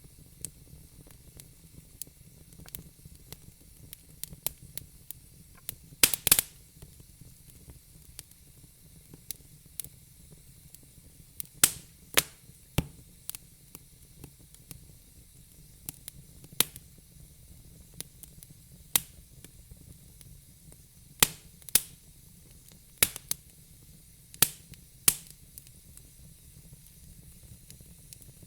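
Burning logs in a fire pit crackling: irregular sharp pops and snaps, a handful of them much louder, over a faint steady hiss.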